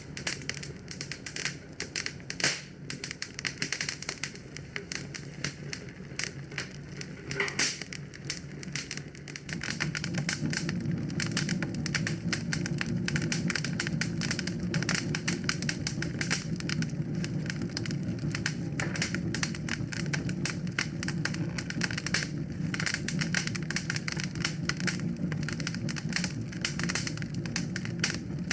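Wood fire crackling in a fireplace: dense, irregular pops and snaps, over a low steady rumble of the flames that grows louder about ten seconds in.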